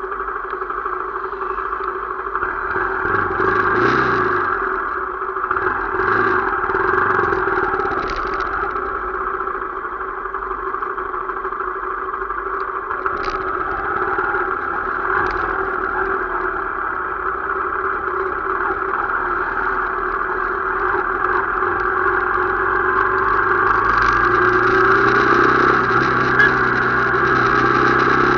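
Motorcycle engine running steadily on the move, its note rising over the last few seconds as it speeds up.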